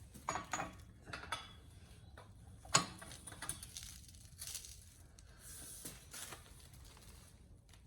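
Scattered metallic clinks and knocks of a socket, breaker bar and cheater bar being fitted and strained against a very tight axle nut, with one sharper clack about three seconds in.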